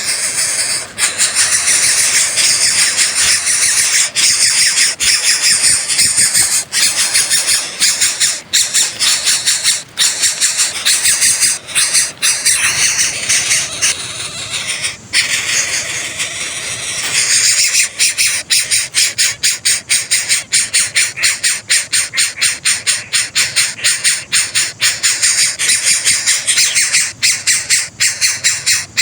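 Coucal nestlings begging at the nest: a long, unbroken run of high, harsh calls, which settles into an even pulse of about three calls a second in the second half.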